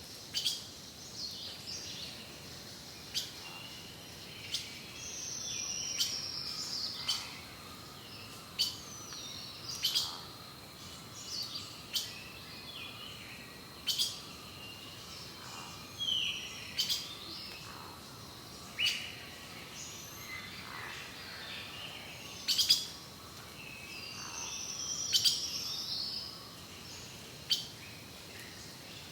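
Birds calling: sharp chirps every second or two, short falling whistles, and twice a longer buzzy note sliding down, over a thin steady high tone.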